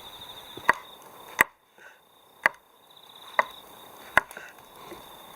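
Five sharp chopping strikes, roughly one a second, over a faint steady high-pitched tone.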